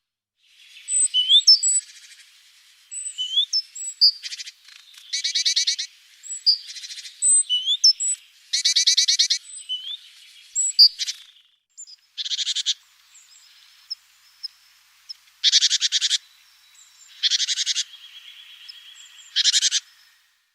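Small songbirds calling: short high chirps and slurred whistle notes, broken by about eight rapid trills that each last under a second.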